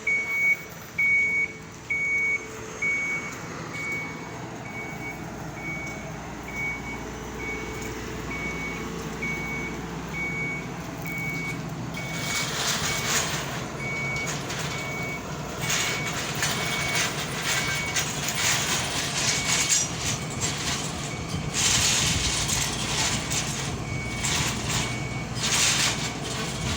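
A reversing alarm beeping evenly, about one and a half beeps a second, over an engine running low and steady. From about halfway through, loud bursts of hissing come and go over it.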